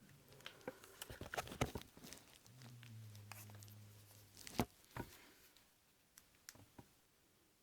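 Clicks, taps and rustles of a Sony Xperia S smartphone being handled, with a sharp knock about four and a half seconds in. A steady low hum lasts about a second and a half near the middle.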